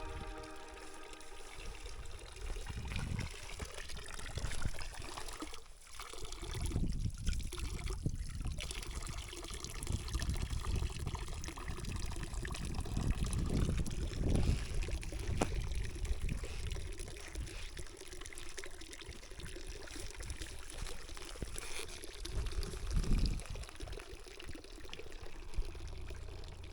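Water trickling in a shallow creek, rising and falling unevenly.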